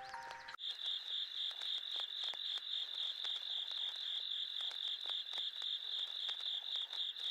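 A steady, high-pitched chirping trill from a night chorus of crickets or frogs, pulsing about five times a second. It starts when the music cuts off about half a second in.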